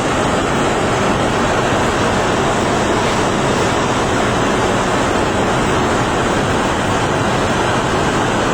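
Strong blizzard wind blowing across the camera microphone: a loud, steady rushing.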